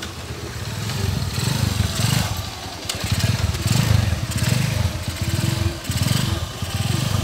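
Single-cylinder four-stroke engine of a modified Honda New Mega Pro, with a longer stroke and a 65 mm piston, revved again and again. Each blip rises and falls back, about six in all.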